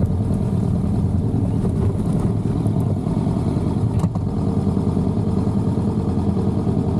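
Motorcycle engine running steadily while riding, with road and wind noise and a single sharp click about four seconds in.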